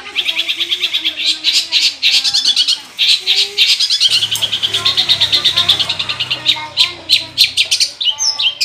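Long-tailed shrike (cendet) singing a loud, rapid run of sharp, repeated chattering notes, with a few varied higher notes near the end.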